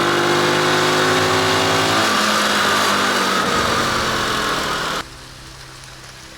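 Motorcycle engine running with a steady pitch that eases slightly lower, mixed with rushing noise; about five seconds in the sound drops off suddenly, leaving a faint low hum.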